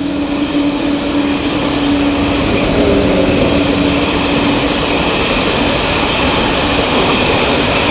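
A train horn sounds a held tone that fades out in the first few seconds, over the steady, loud rumble of a train running past.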